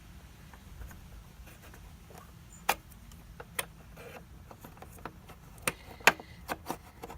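Irregular plastic clicks and knocks from handling the height-adjustment knob of a Hoover Dust Manager vacuum cleaner while trying to seat it. Two sharper snaps stand out, one a little under 3 s in and one about 6 s in.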